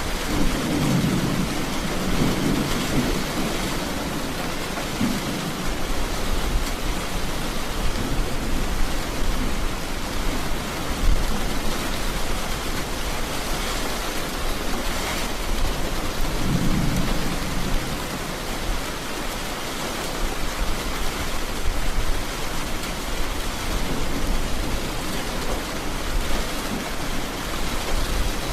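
Heavy rain falling steadily, with low rumbles of thunder near the start and again about two-thirds of the way through.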